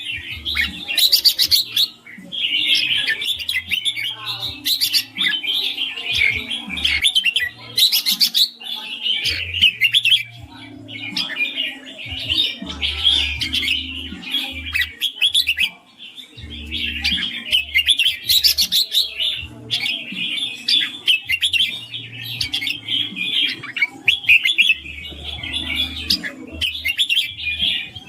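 Red-whiskered bulbul singing: quick runs of bright chirping notes in phrases a second or two long, with short breaks between them.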